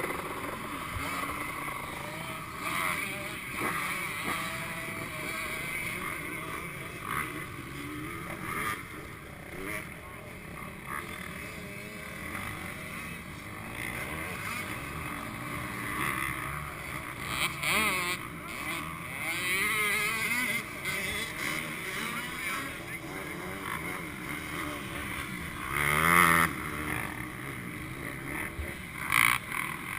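Dirt bike engines revving, their pitch rising and falling, with louder swells now and then.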